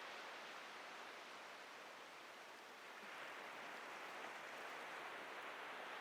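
Atlantic ocean surf washing on a beach: a steady hiss that eases a little a couple of seconds in and swells again as the next wave breaks.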